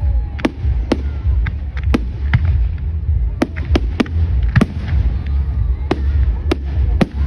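Fireworks going off: an irregular run of sharp bangs and cracks, about two a second, over a steady low rumble.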